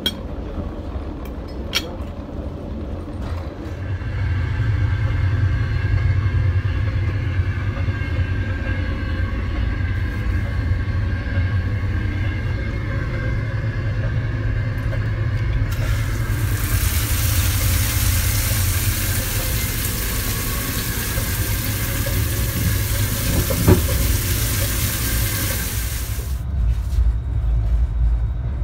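Passenger train running, heard from inside the carriage as a steady low rumble. A strong, even hiss joins it for about ten seconds in the middle.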